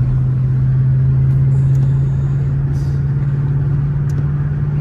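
Dodge Charger R/T's 5.7-litre HEMI V8 droning steadily under way, heard from inside the cabin, with road noise underneath.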